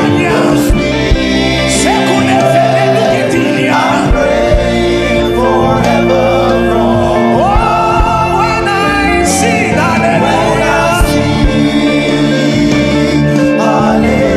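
Gospel song: a voice singing over sustained keyboard chords, with regular drum hits.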